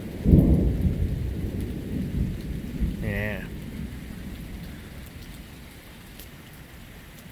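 A thunderclap rumbles, starting sharply a moment in and dying away over several seconds, over steady rain. Partway through, a brief wavering pitched sound is heard.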